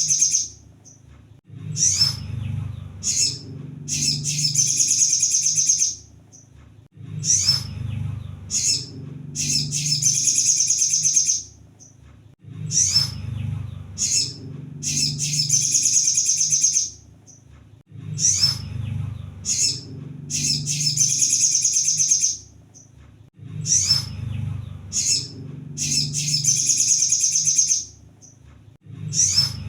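Ruby-cheeked sunbird (kolibri sogon) singing a high-pitched, rapid twittering song. Phrases of about four seconds repeat roughly every five and a half seconds, with short sharp chips between them, as a looped lure recording. A steady low hum runs underneath.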